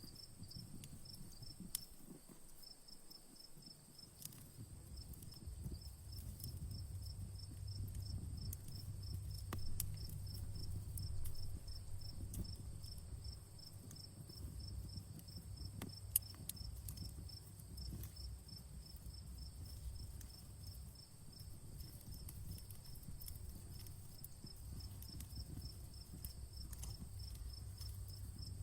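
Campfire burning with a low rumble and scattered crackles, one sharper pop about halfway through. Behind it, crickets chirp in a quick, regular pulse over a steady high insect trill.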